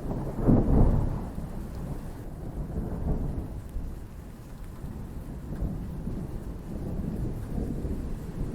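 Thunder rolling, loudest in a crack about half a second to a second in, then rumbling on more softly and swelling again, over steady rain.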